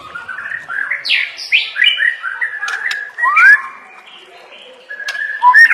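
White-rumped shama (murai batu) singing a fast, varied song of chirps and slurred whistles, mixing in mimicked phrases, with a loud rising whistle about halfway through.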